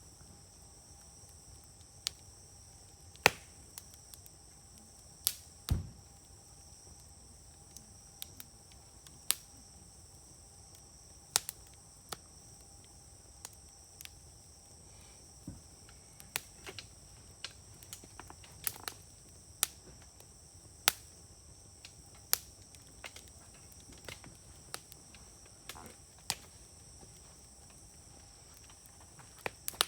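Wood fire crackling, with irregular sharp pops from the burning wood, about one every second or two and some much louder than others. Insects keep up a steady high-pitched trill behind it.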